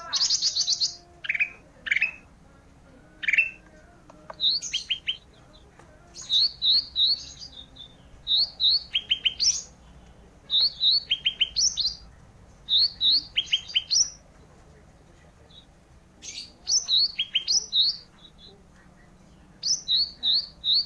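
A songbird of the kind Indonesian bird keepers call 'ranting' singing busily: bursts of quick, high chirping notes, each burst a run of short repeated whistles followed by a few falling notes, coming every second or two with brief pauses between them.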